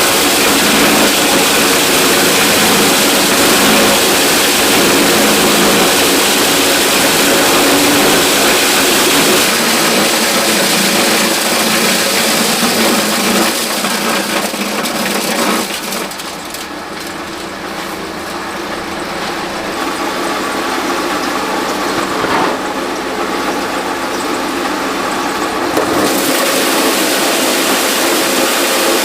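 A machine's motor running steadily and loudly, with a dense rattling hiss over its hum; it eases off and thins about halfway through, then comes back up near the end.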